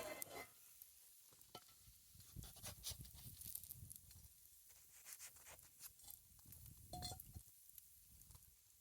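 Faint, scattered crackles and pops of a campfire, with a brief squeak about seven seconds in.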